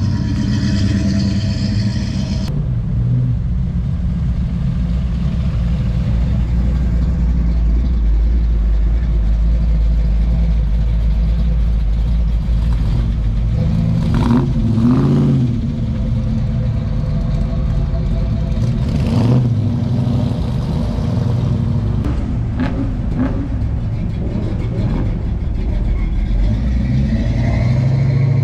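Classic muscle car engines running with a loud, low rumble as the cars roll out. About halfway through the revs rise and fall briefly.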